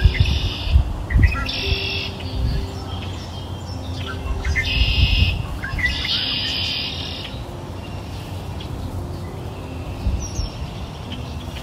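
Birds chirping in four short bursts of high twittering during the first seven seconds, then quieter, over soft, steady low tones.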